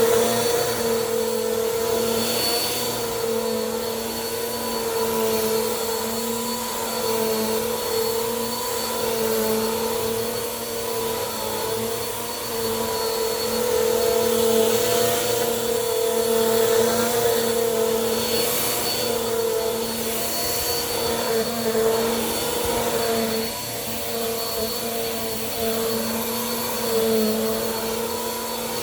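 Bissell PowerForce Compact upright vacuum cleaner running steadily, its motor giving a constant hum and whine under a rushing hiss that swells every few seconds.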